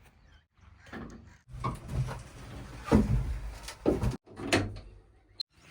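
Heavy earth-moving machinery at work: a low engine rumble with several sharp metallic clunks and knocks, the loudest about three seconds in, broken by sudden short gaps.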